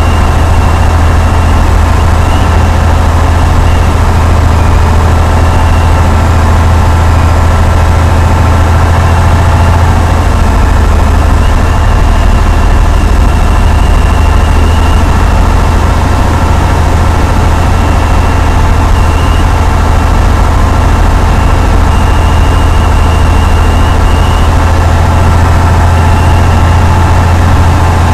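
Cessna 172's piston engine and propeller running at a steady, unchanging power setting: a loud, even drone.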